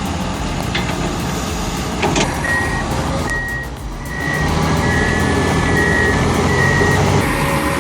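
Heavy earthmoving machine's diesel engine running with a loud rumble that swells about halfway through, while a backup alarm beeps repeatedly, a little over once a second. A couple of brief metallic knocks come early on.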